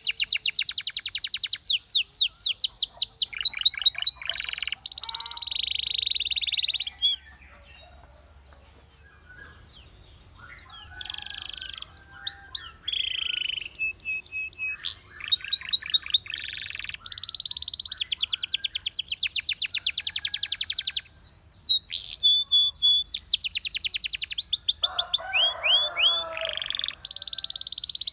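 Canary singing: long, fast trills of rapidly repeated high notes mixed with gliding whistles, broken by a pause of a few seconds about a third of the way in.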